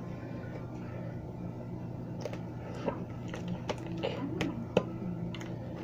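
Homemade fluffy slime being squeezed and worked by hand, giving a string of irregular wet clicks and pops over a steady low hum, with faint voices in the background.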